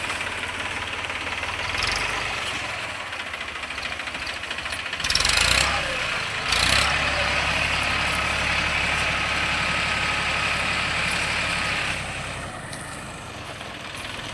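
Deutz-Fahr tractor's diesel engine running steadily. About five seconds in it gets louder with two short surges, holds at a higher, steady level, and eases back about twelve seconds in.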